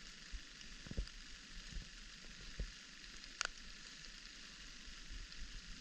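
Light rain falling, a steady hiss, with a few faint low knocks and one sharp tick about three and a half seconds in.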